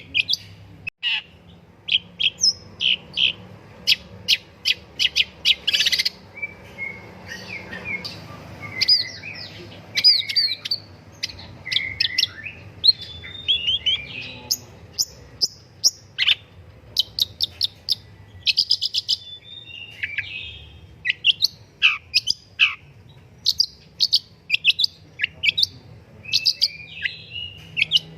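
Long-tailed shrike (pentet) singing energetically: rapid runs of sharp, high chips mixed with scratchy, slurred phrases, with only a brief pause about a second in.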